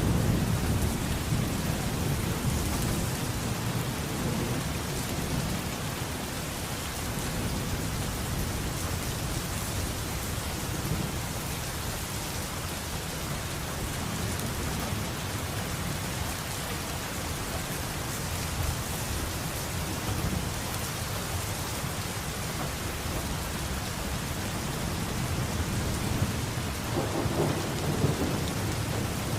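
Steady rain falling, with low rolling thunder rumbling under it: the rumble fades over the first few seconds and builds again near the end.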